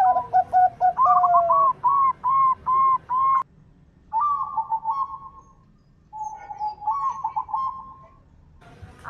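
Zebra doves cooing: quick runs of short, arched, bubbling coos at two pitches. The runs break off suddenly about three and a half seconds in, come back twice, and are faint near the end.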